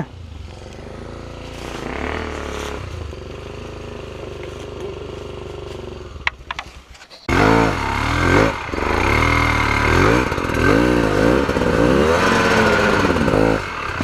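Honda Tornado 250 single-cylinder four-stroke trail bike climbing a loose rocky hill, its engine held at a steady pitch at first, then much louder from about seven seconds in, revving up and dropping back again and again as the rider works the throttle.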